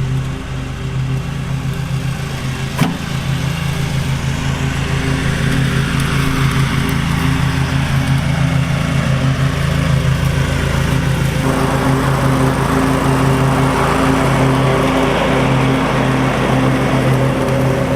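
Kohler Command V-twin engine of a Cub Cadet lawn tractor running steadily after a carburetor rebuild. There is a sharp click about three seconds in. About eleven seconds in, the sound grows louder and fuller, as if under more load or throttle.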